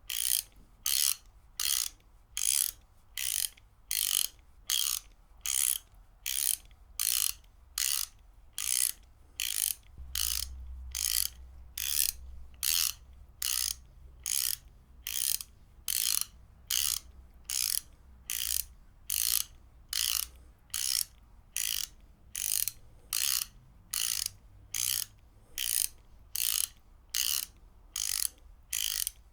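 Ratchet wrench clicking in short, evenly spaced rattles of pawl clicks, about one and a half a second, repeating steadily.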